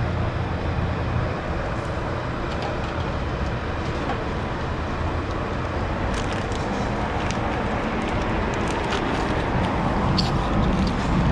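Steady road traffic and car engine noise, with a low engine hum that fades about a second in.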